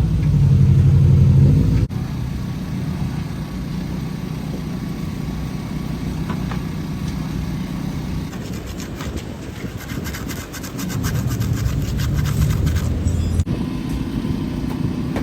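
Subaru Impreza rally car's engine running hard under load with tyre and road noise, loudest for the first two seconds and then dropping suddenly to a steadier, lower run. A rapid clicking rattle rides over it through the second half.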